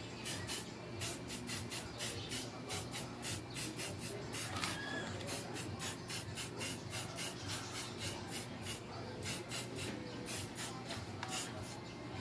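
Brush strokes of paint going quickly back and forth over a metal motorcycle muffler, a rhythmic scratchy swish at about three to four strokes a second, over a faint steady low hum.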